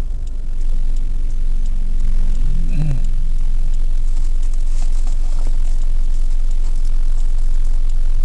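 Car cabin noise while driving: a steady low engine and road rumble, with a brief falling-pitch sound about three seconds in.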